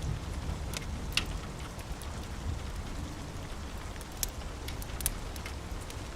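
Steady rain falling, with a low rumble underneath and a few sharp pops and crackles of a wood fire, the clearest about a second in and around four and five seconds in.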